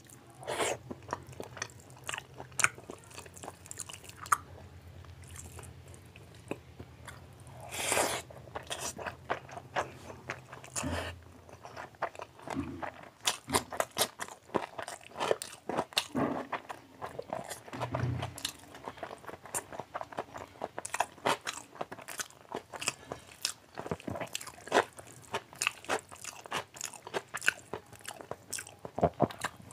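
Close-miked wet chewing and lip smacking of a man eating mouthfuls of rice and curry by hand, a rapid run of short smacks and clicks that gets busier about halfway through.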